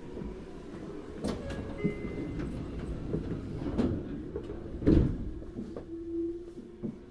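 Inside a Tokyu Series 9000 electric train car running along the line: a steady rumble and motor tone, with the wheels knocking over rail joints several times, loudest about five seconds in.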